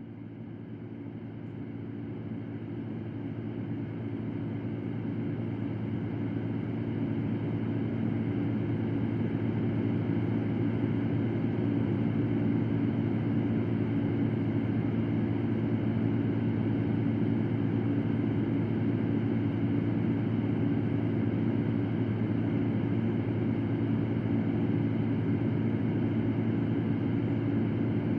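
Electric fan running steadily: a constant whir with a low hum, fading in over the first several seconds and then holding level.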